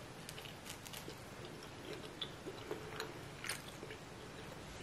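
Faint biting and chewing of an oven-baked chicken wing, with scattered small clicks and crackles as the meat and skin are bitten and chewed.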